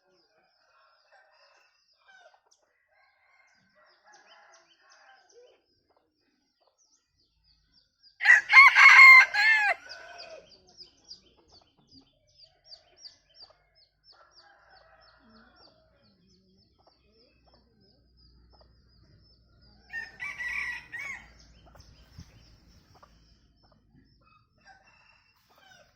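Bantam rooster crowing twice: a loud crow about eight seconds in lasting under two seconds, and a second, quieter crow around twenty seconds in.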